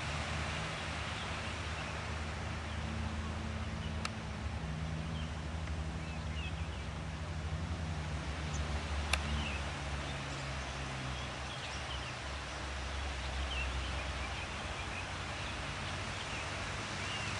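Open-air ambience: a steady low rumble under a soft hiss, with faint, scattered high bird chirps through the middle and a couple of sharp clicks.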